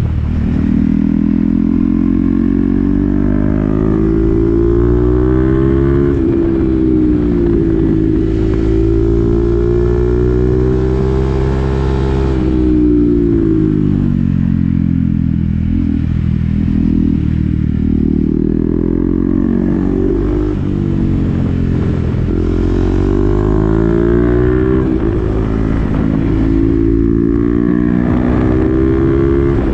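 Single-cylinder engine of a 2020 KTM Duke 390 through an SC-Project exhaust with the dB killer fitted, under way. The revs climb, drop and climb again several times as the bike accelerates, changes gear and slows down.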